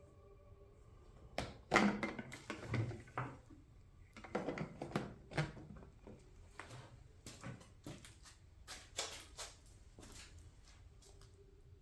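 Irregular knocks, clicks and clatter of tools and small parts being handled during small-engine repair work, heaviest about two seconds in, around the middle and near the end.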